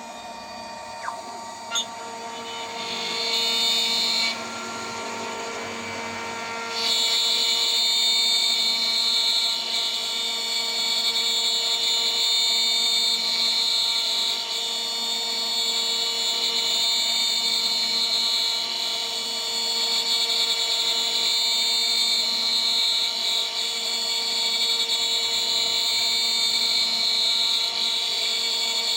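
DIY CNC machine's spindle whining at high speed while a 3 mm three-flute end mill cuts, a steady high-pitched machining sound. It is quieter and uneven at first, with two small clicks, and louder and steady from about seven seconds in.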